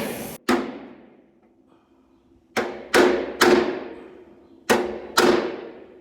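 Bodywork hammer striking a steel car-door panel, six blows in uneven groups, each leaving a short metallic ring as the sheet is planished against a dolly. A steady hiss cuts off just before the first blow.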